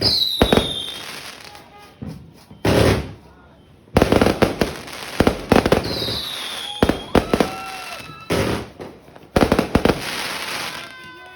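Legendary Fireworks Boracay 150S cake firing: rapid clusters of sharp bangs with crackle, with short falling whistles twice. There is a brief lull before the shots pick up again, and the barrage ends near the end.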